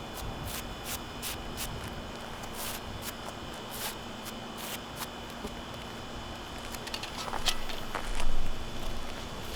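Irregular light clicks and scuffs of hands and tools working on asphalt roof shingles, with a louder knock about eight seconds in.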